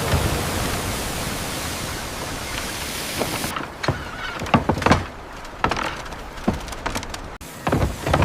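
A steady hiss that cuts off suddenly about three and a half seconds in, followed by irregular knocks and thuds of construction work.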